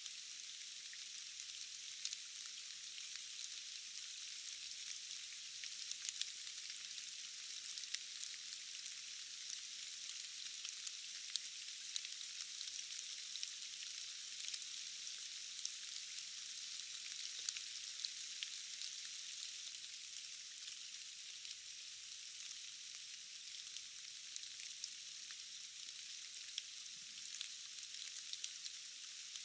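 Steady rain falling in a forest: a constant thin hiss, dotted with many small drop ticks, with no low rumble.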